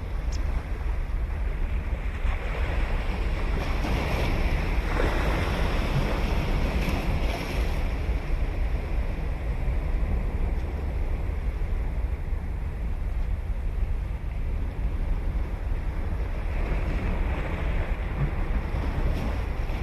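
Ocean surf breaking and washing up the beach, swelling about two seconds in and again near the end, over a steady low rumble of wind on the microphone.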